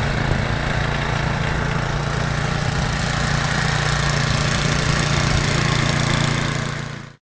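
An engine running steadily, a low even hum that fades out in the last second.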